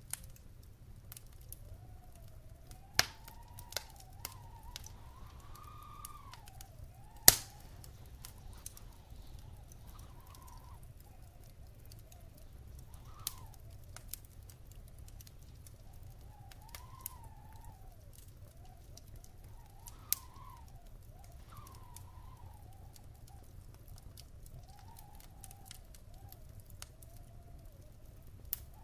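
Wood fire crackling in a fireplace: scattered sharp pops, the loudest about seven seconds in, over a low steady rumble. A faint whistling tone wavers up and down throughout.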